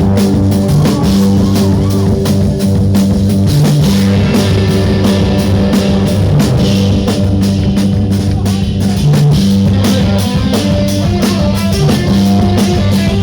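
Rock band playing: drum kit and electric guitar over sustained low notes, loud and continuous.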